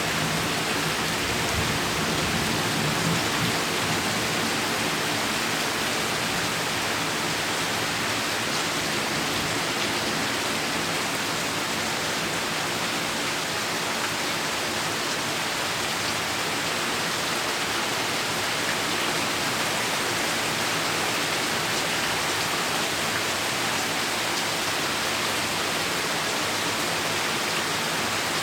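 Heavy rain falling steadily in a dense, even hiss, with a low rumble of thunder fading away in the first few seconds.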